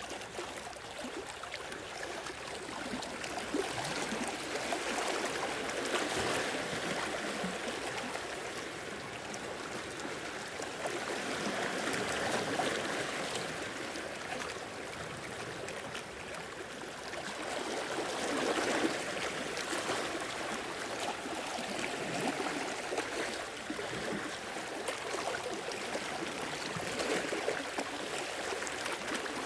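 Small sea waves washing in and draining back, a steady watery wash that swells and ebbs every several seconds.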